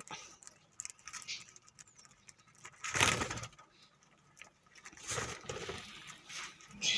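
Budgies in an aviary loft fluttering and chirping amid scattered small clicks and rustling, with a louder rustle about three seconds in and another about five seconds in.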